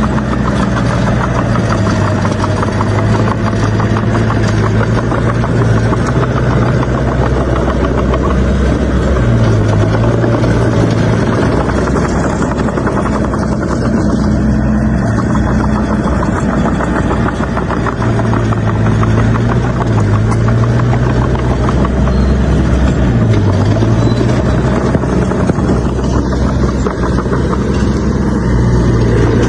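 Bulldozer's diesel engine running hard, its note stepping up and down every few seconds, with a steady mechanical clatter over it.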